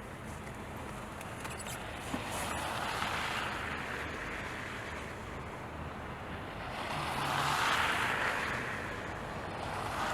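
Vehicles passing on a snowy road: a steady hiss of tyres that swells twice as traffic goes by, the second pass louder.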